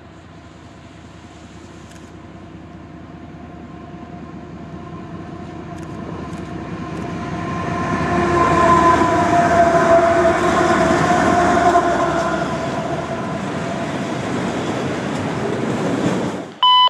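Freight train approaching and passing, growing steadily louder to a peak about eight to eleven seconds in, with steady locomotive horn tones over the rumble of the train. It cuts off suddenly just before the end, and a short radio tone follows.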